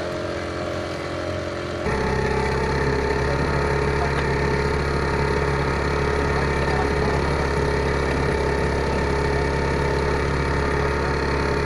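Boat engine running steadily. About two seconds in it abruptly becomes louder and deeper, then holds an even drone.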